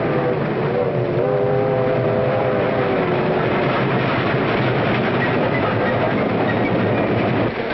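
A locomotive whistle sounds a chord of several notes for the first few seconds over the noise of a moving train. The whistle then stops, leaving the steady rumble and clatter of the train running.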